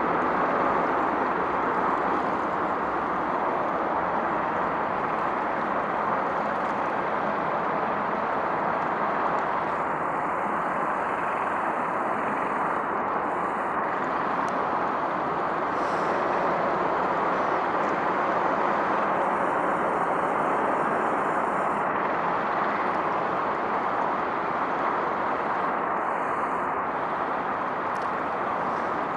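Steady, even din of distant road traffic, a continuous noise without distinct events.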